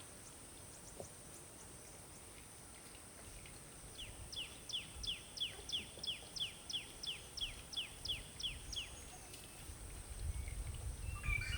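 A bird calling outdoors: a run of about fifteen quick, high notes, each sliding downward, about three a second, lasting some five seconds, over faint background hiss.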